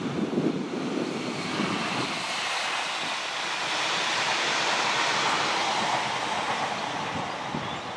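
Greater Anglia Stadler FLIRT passenger train passing at speed: a rushing noise of wheels on rail and air that swells to a peak about halfway through, then fades as it goes away. Wind buffets the microphone at the start.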